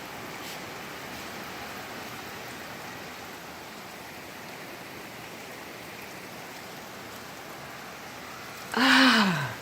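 Heavy tropical rain pouring down, a steady even hiss heard from inside the house with the door shut. Near the end a short voice sound breaks in, falling in pitch.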